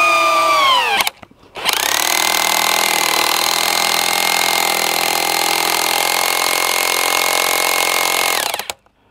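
Handheld electric power tool motor: its whine drops in pitch and cuts out about a second in, then it starts again half a second later and runs at a steady pitch for about seven seconds before stopping.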